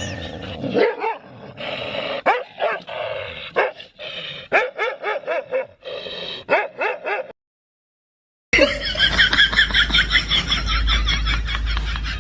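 A dog barking and yipping in short repeated calls. After a brief dead silence about seven seconds in, a different, higher-pitched rapid run of calls starts over a low hum.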